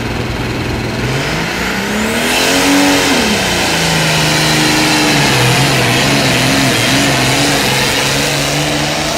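Pulling tractor's engine revving hard. Its pitch climbs steeply from about a second in, then wavers up and down as it runs under load, with a loud rushing hiss joining from about two seconds.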